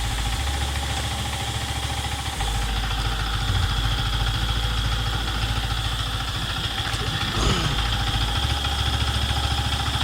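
Yamaha MT-15's single-cylinder engine running steadily at idle on the stand, turning the rear wheel and chain for cleaning. A short falling sound cuts across it about seven and a half seconds in.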